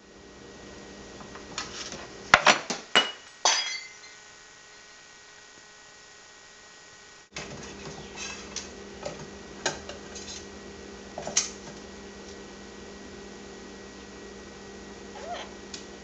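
Kitchen utensils and dishes clinking and clattering as a parrot rummages through cabinets and drawers, the nest-searching of a hen parrot before egg laying. A burst of sharp clinks comes a couple of seconds in, then scattered lighter clinks and taps.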